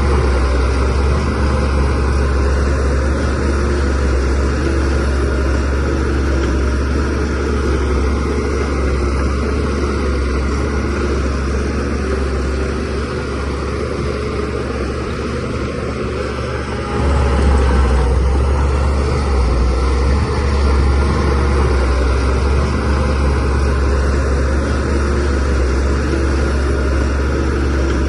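DH17C3PRO bulldozer's diesel engine running steadily under load with a deep, even rumble. It eases off slightly, then picks up sharply about seventeen seconds in.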